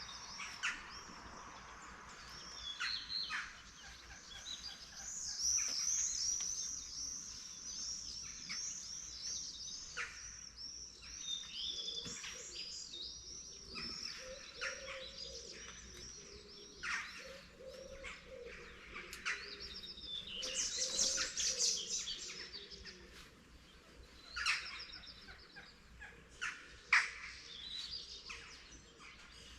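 Morning chorus of several songbirds: overlapping high chirps, trills and quick repeated song phrases, with some lower warbled notes mixed in partway through.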